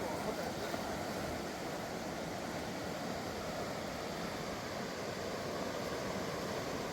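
Fast mountain river rushing over rocks: a steady, even roar of water.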